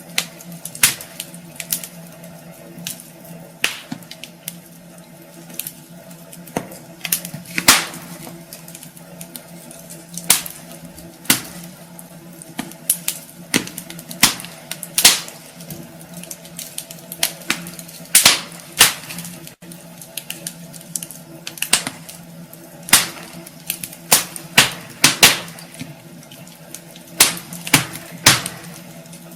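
Wood fire burning in a fireplace, crackling with irregular sharp pops, several a second at times, over a steady hiss and a faint low hum.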